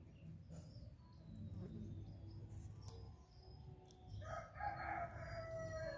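A long bird call begins about four seconds in and lasts nearly two seconds, its pitch dropping slightly at the end, over a low steady background hum.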